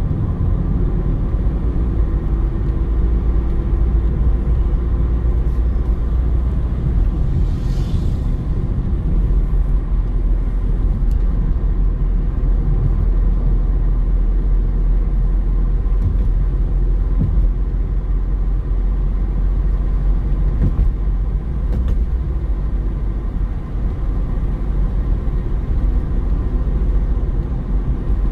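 Car driving along a road: a steady low rumble of road and engine noise, with a brief hiss about eight seconds in.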